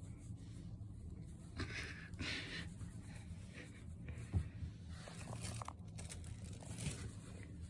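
Soft rustling and handling noises, with a single light knock about four seconds in.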